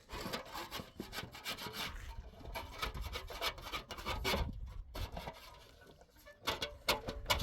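Repeated scraping or rubbing strokes, stopping briefly about two-thirds of the way through and picking up again near the end.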